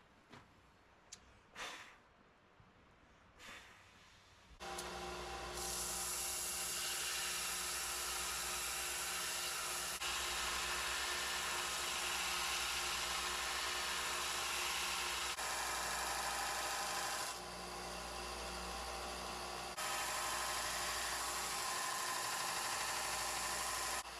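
A few light clicks, then an electric power tool starts about five seconds in and runs steadily with a low hum. Its sound drops for a couple of seconds past the middle, then comes back up.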